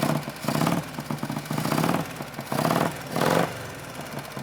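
1962 Harley-Davidson Panhead V-twin engine running just after a one-kick cold start, revved in about six short blips of the throttle over a steady idle.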